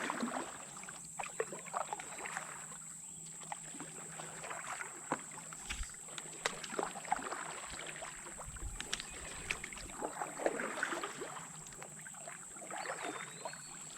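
Canoe paddle strokes: splashes and drips of the paddle blades in the water, recurring every few seconds, with scattered light ticks and knocks.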